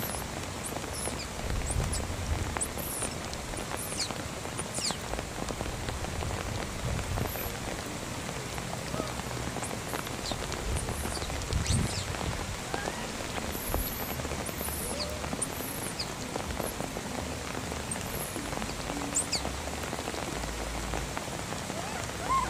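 Steady rain falling on wet ground and vegetation, with short, faint high chirps scattered through it.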